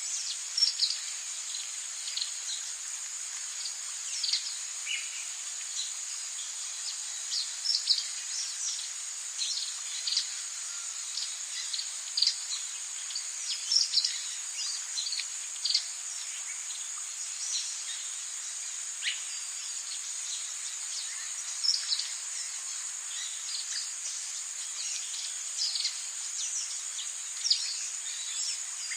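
Rainforest ambience: a steady, high-pitched drone of insects with frequent short bird chirps and calls scattered over it.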